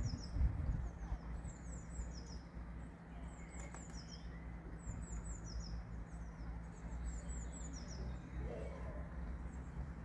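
A small songbird repeats a short phrase of quick, high, descending chirps about every two seconds over a steady low outdoor rumble.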